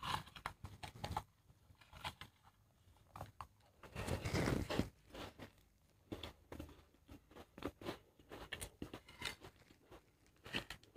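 A person chewing biscuits with the mouth closed: faint, scattered crunching clicks, with a longer, louder noisy stretch about four seconds in.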